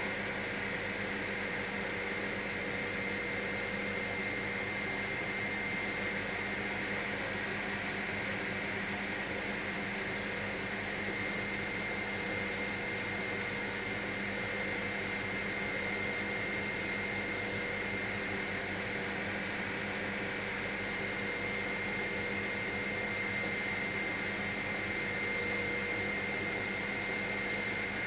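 Helicopter in steady cruise heard from inside the cabin: an even drone of engine and rotor noise with a constant high whine, unchanging throughout.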